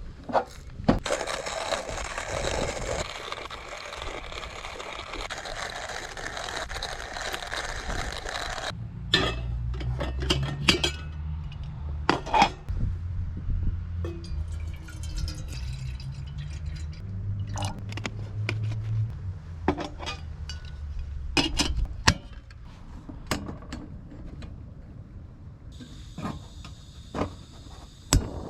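Cookware clinking and knocking, a dozen or so sharp strikes scattered through, over a steady hiss for the first nine seconds or so and then a low hum until about two-thirds of the way in.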